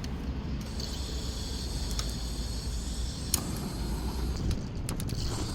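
A handheld gas torch hissing steadily as it lights split kindling and newspaper in a wood stove, over a low rumble, with a few sharp clicks and knocks of handling.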